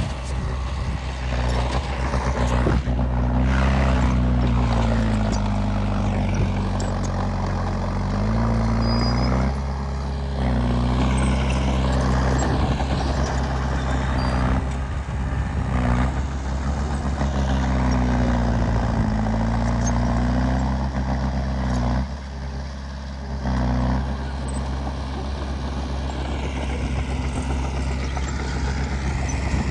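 Heavy diesel engine of earthmoving machinery working under load, its pitch rising and falling over and over as it is throttled, with two brief drops about a third of the way in and again near the three-quarter mark.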